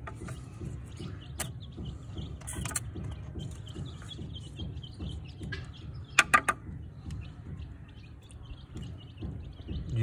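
Birds chirping, small high chirps repeating throughout. Three quick sharp clicks come close together about six seconds in.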